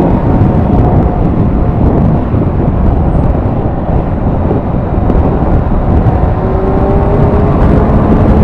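Kawasaki Z1000SX inline-four engine running while riding, under heavy wind rush. A faint engine note rises slightly near the end.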